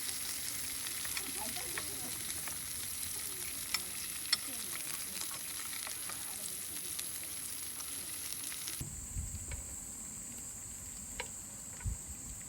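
Food sizzling as it fries in a pan, with scattered light clicks. The sizzling cuts off abruptly about nine seconds in, giving way to a quieter steady high hum.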